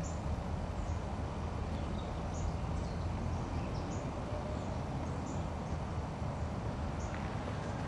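Small birds giving short, high chirps every second or so over a steady low rumble.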